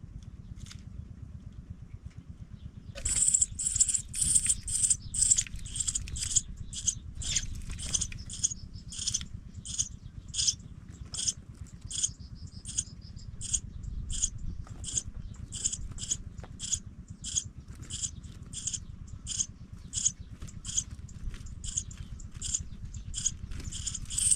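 Pipit nestlings calling in a rapid series of short, high-pitched chips, about two to three a second, starting about three seconds in, over a low steady rumble.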